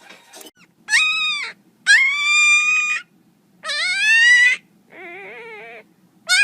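A pet animal giving a series of long, high-pitched cries: three loud calls, the third rising in pitch, then a quieter wavering one.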